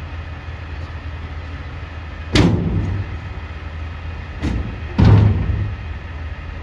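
Garbage truck engine running steadily, with three loud bangs over it: one about two and a half seconds in, then two more about half a second apart near the end, the last the loudest.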